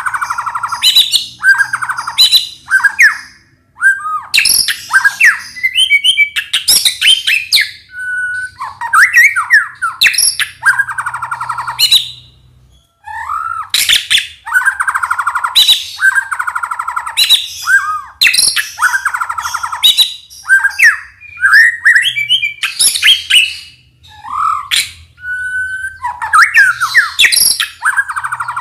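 White-rumped shama (murai batu) singing loud, varied phrases: clear whistled glides mixed with harsh, rapid rattling notes, in bursts with short gaps and a pause of about a second partway through.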